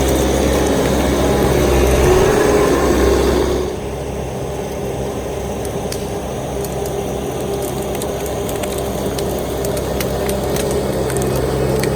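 Bobcat T650 compact track loader's diesel engine running while its root grapple crushes and snaps brush and branches, with scattered cracks of breaking wood. The whole sound drops back about four seconds in.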